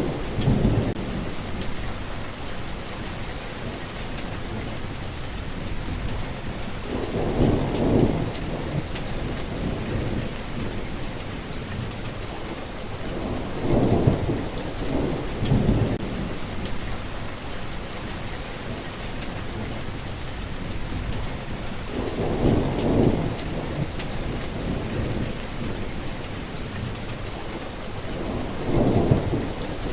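Steady rain with low rolls of thunder that swell and fade about every six to eight seconds.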